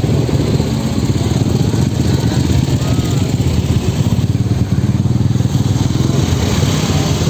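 An engine running steadily at a constant speed, with a fast, even low pulsing.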